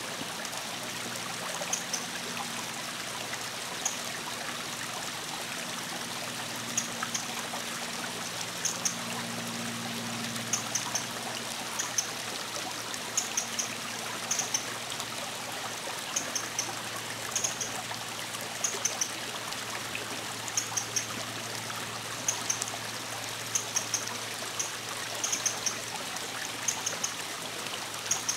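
Eurasian wren giving its short, hard call notes (not its song), singly or in quick twos and threes every second or two, over the steady rush of a stream.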